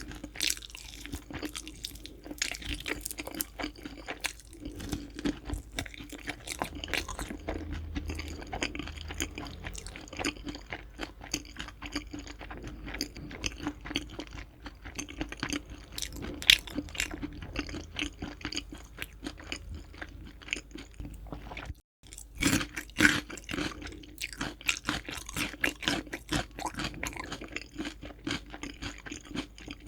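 Close-miked chewing of crispy fried chicken, the batter crunching and crackling in quick, irregular bites. The sound cuts out briefly about two-thirds of the way in, then returns with a few louder crunches.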